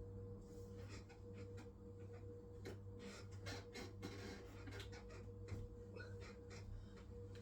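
Hisense washing machine running on its wool cycle: a faint steady hum with a steady higher tone above it, and scattered soft clicks and taps from the drum and its load.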